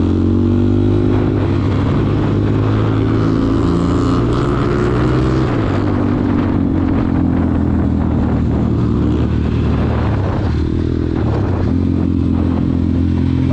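Dirt bike engine running steadily under way, its pitch rising and falling gently.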